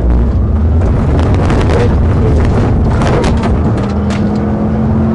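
Pursuing car running hard at speed: steady engine drone under loud road and wind noise, with scattered clicks and knocks in the first few seconds.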